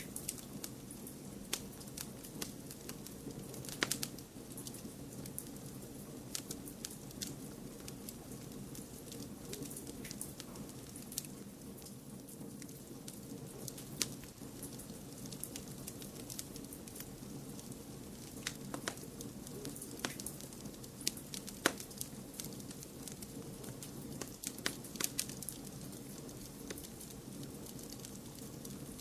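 Wood fire in a fireplace crackling: sharp pops and snaps at irregular intervals, a few louder than the rest, over a steady low noise bed.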